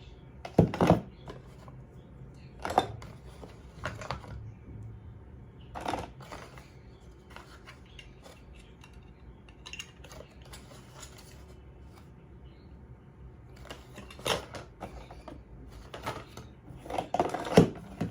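Handling noises from unboxing: scattered knocks, taps and rustles of packaging and gear being moved about, the loudest about half a second in and near the end, over a faint low hum.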